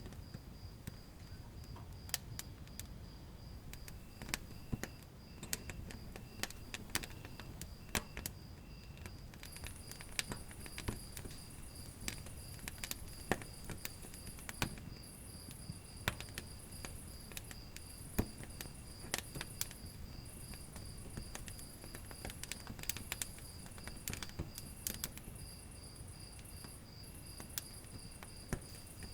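Wood fire crackling in a fireplace, with irregular sharp pops over a low steady rumble. Crickets chirp steadily throughout, and about a third of the way in a higher insect trill joins, coming and going in spells of a second or so.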